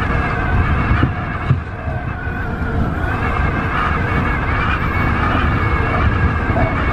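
Tobu 50090-series electric train running at speed: a steady low rumble with several held whining tones above it.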